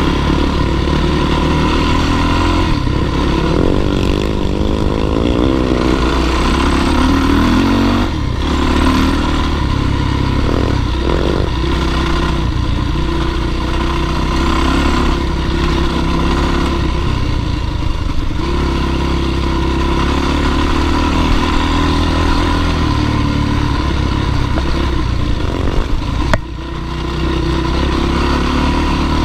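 Dirt bike engine running hard on a climb, its note rising and falling with the throttle and easing off briefly twice.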